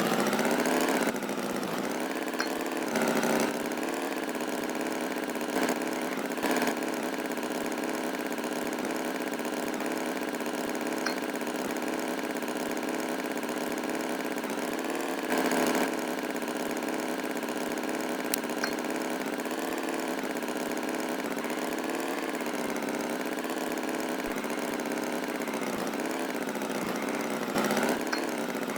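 An engine running at a steady idle, its pitch rising as it comes up to speed in the first second, with brief louder surges now and then.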